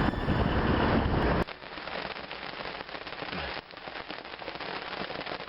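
Music for about the first second and a half, cutting off abruptly, then a steady patter of heavy rain.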